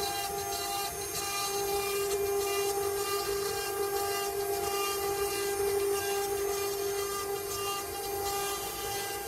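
CNC wood-carving router spindle running with a steady high whine.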